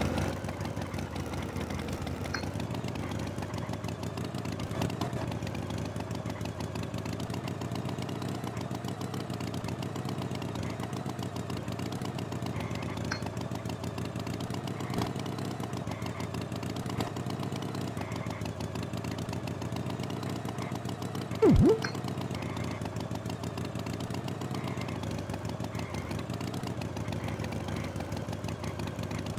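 Tractor engine running steadily at an even, idling-like pace. About two-thirds of the way through, a short loud swooping tone cuts in briefly.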